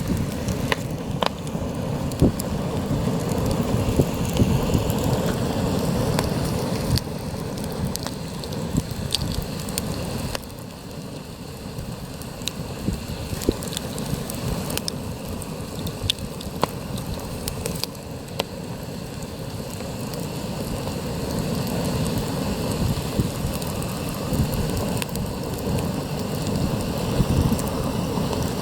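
Campfire crackling and popping while heavy wind blows over it and buffets the microphone with a low rumble. The wind is strong at first, eases about a third of the way in, and builds again in the last third.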